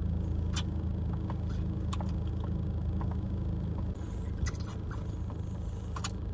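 Close, wet mouth sounds of someone sucking and kissing on another person's neck: small lip smacks and clicks over the steady low hum inside a car.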